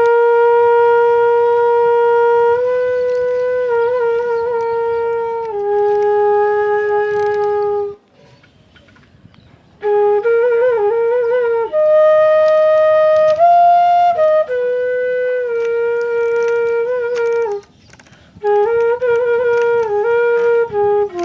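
Solo wind-instrument melody of long held notes that slide from one pitch to the next, stopping twice for a brief pause.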